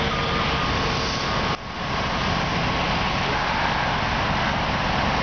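Steady rumble of truck and heavy-equipment engines running, dipping suddenly for a moment about one and a half seconds in.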